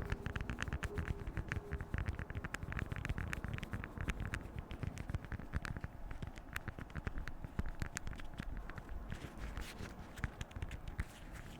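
Beeswax food wrap being crinkled and handled close to the microphone: a dense, irregular run of small crackles and taps.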